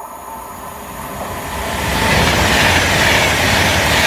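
Avanti West Coast express train approaching and passing at speed, a rushing noise with a low rumble. It builds over the first two seconds, then holds loud and steady as the coaches go by.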